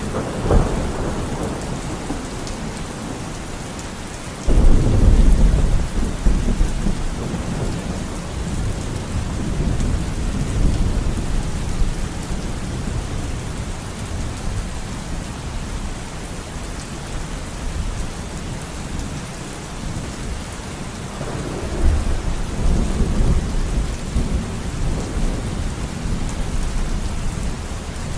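Steady rain falling, with thunder: a sharp crack right at the start, a loud deep rumble that starts suddenly a few seconds in and slowly dies away, and another long rumble near the end.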